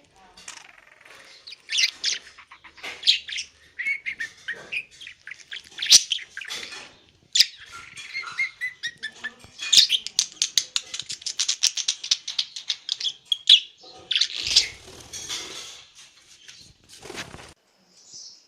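Pet budgerigar chattering and warbling in a string of high chirps and squeaky notes, with a fast clicking chatter in the middle.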